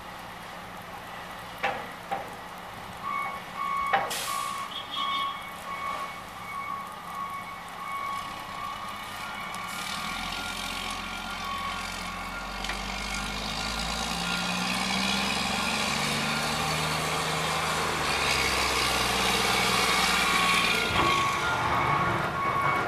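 Reversing alarm on a heavy snow-removal vehicle, beeping in a steady rhythm, while the vehicle's engine grows louder from about ten seconds in. A few sharp knocks come in the first four seconds.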